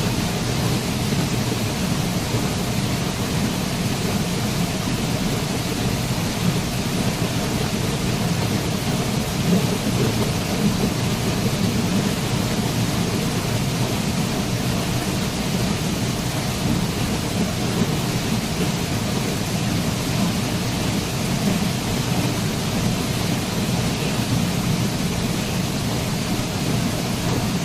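Waterfall: steady, loud rush of falling water, a deep even roar with no change.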